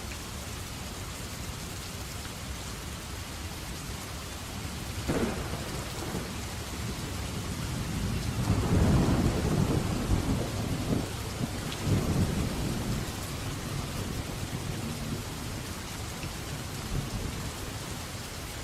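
Steady rainfall with a sharp thunderclap about five seconds in, then a long rolling rumble of thunder that swells a few seconds later and dies away.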